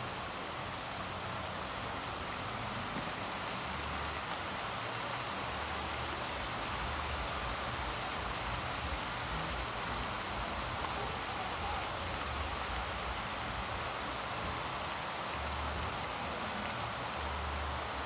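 Heavy rain falling steadily on a yard, an even hiss of rain.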